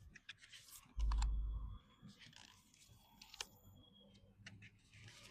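Oracle cards being handled and laid out: a run of light clicks and taps. About a second in there is a loud low rumble lasting under a second, like a bump against the microphone.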